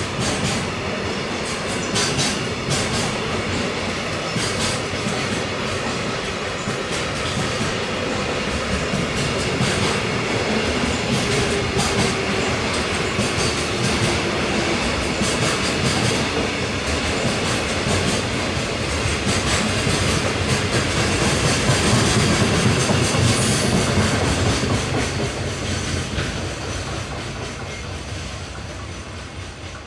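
Container freight train wagons rolling past, wheels clicking over rail joints, with a faint falling squeal about halfway through. The rumble is loudest past two-thirds of the way, then fades.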